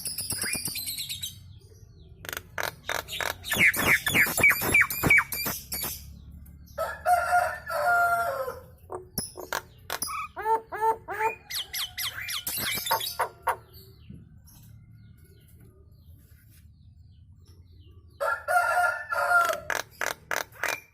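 Nias hill myna chattering: a run of sharp clicks, harsh rasping calls and pitched whistled notes in bursts, with a quieter gap of a few seconds before the calls start again near the end.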